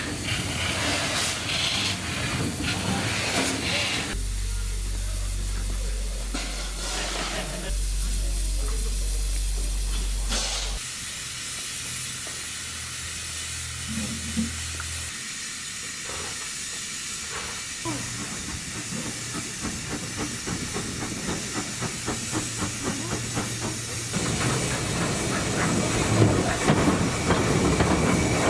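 Steam locomotive hissing steam, with a run of rapid, regular ticks past the middle and louder train noise building near the end.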